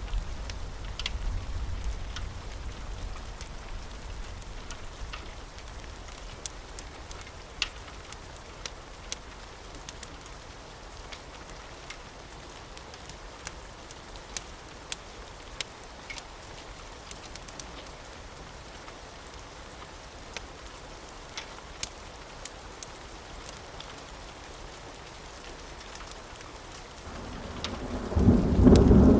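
Steady rain with scattered sharp ticks. A low thunder rumble fades away over the first few seconds, and a loud roll of thunder builds up near the end.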